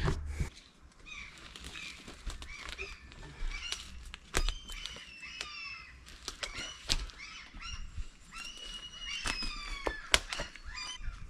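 Small birds singing, with repeated chirps and falling whistled notes, broken by a few sharp knocks.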